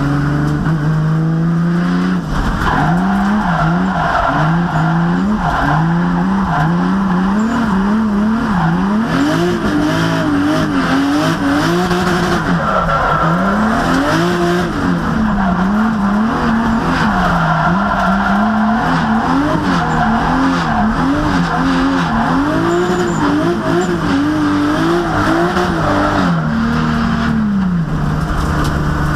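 Drift car engine revving up and down over and over under changing throttle while drifting, with the tyres squealing in stretches. The engine holds a steady note at the start and again near the end.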